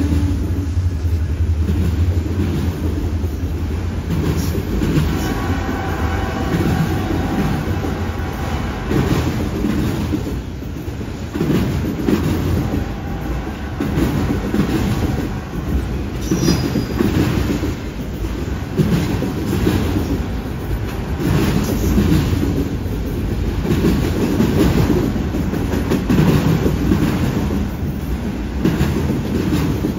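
Freight train of autorack cars rolling past: steady wheel-on-rail rumble with repeated clacking, and a faint wheel squeal around five to nine seconds in. The drone of the lead CN diesel locomotives fades out about a second in.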